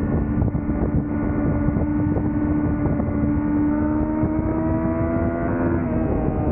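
2005 Yamaha YZF-R6's inline-four engine running at high revs through a Laser aftermarket exhaust, pitch slowly rising for about five seconds under steady throttle, then falling near the end as the revs drop. Wind rushes over the microphone throughout.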